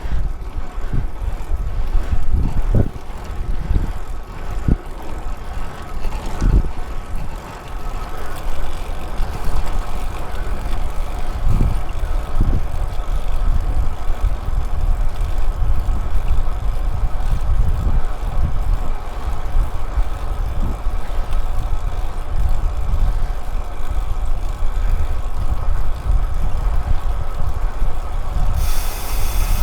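An engine running steadily with a low rumble, with several low thumps in the first dozen seconds and a hiss coming in near the end.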